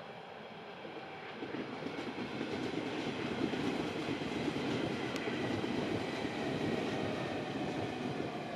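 Berlin S-Bahn electric multiple unit passing on an embankment: wheel-on-rail rumble and clatter swells after about a second and a half, then holds steady.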